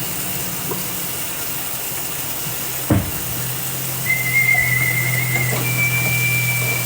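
Someone whistling two long held notes, the second a little higher, starting about four seconds in, over a steady low hum. A sharp knock about three seconds in.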